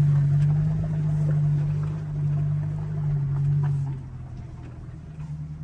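Vehicle engine running with a steady low drone that eases off and drops in level about four seconds in.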